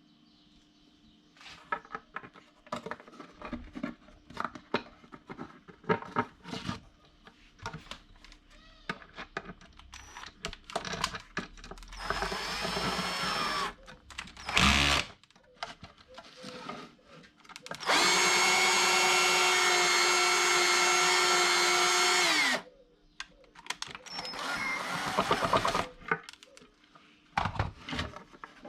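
Small clicks and knocks of handling, then a power drill running in several bursts, the loudest a steady whine of about four and a half seconds, working screw holes so the screw heads will sit flush.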